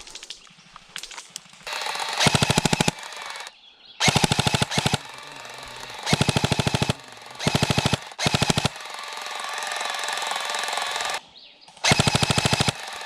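Airsoft electric gun firing full-auto in several short bursts of rapid clicking shots, each under a second, with brief pauses between them.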